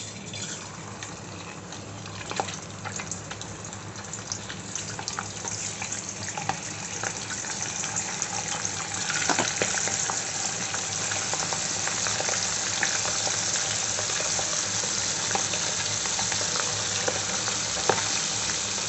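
Prawns frying in hot oil in a wok: a steady sizzle scattered with pops and crackles, building up over the first half and then holding.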